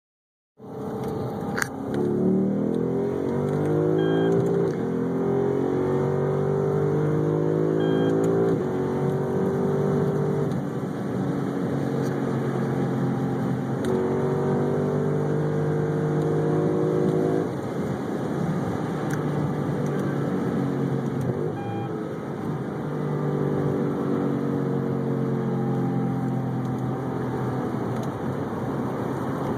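Lexus IS F's 5.0-litre V8 with an ISS aftermarket exhaust under way, accelerating through paddle-shifted gears: the note climbs in pitch, then drops at each upshift. It holds steady stretches in between and settles lower and quieter in the last third.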